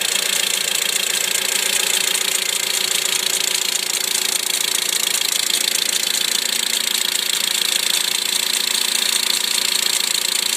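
2008 Mitsubishi Lancer engine idling with a rapid, steady clicking tick from the passenger side of the engine, sounding a bit like a diesel. It is a cold-weather tick: it appeared after extreme cold (−35 °C), is heard here at −5 °C, and the owner says it is fine at 3 °C.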